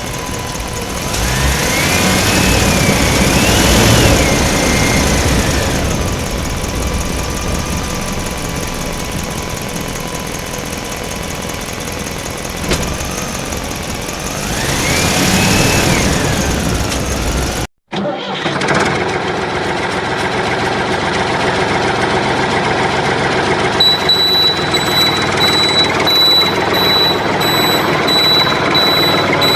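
A motor running, its pitch rising and falling twice like revving. After a sudden cut, a different steady machine sound follows, and a high beep starts repeating about three-quarters of the way through.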